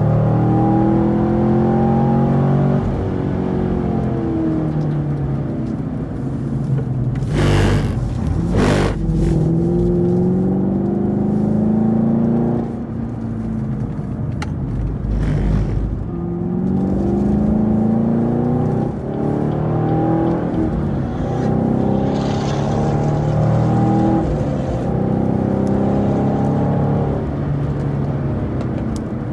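2018 Camaro SS 1LE's 6.2-litre V8 being driven hard on track, revs climbing and falling several times as it accelerates out of corners and lifts and brakes for the next. Two short bursts of harsh noise break in about a quarter of the way through and again near halfway.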